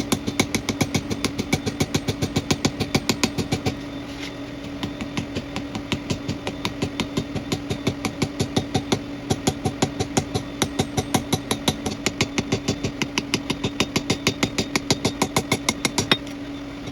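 Power hammer striking a tube in rapid, even blows, about five a second, over a steady motor hum, drawing out a taper on the tube's end. The blows ease briefly about four seconds in and stop for a moment near the end.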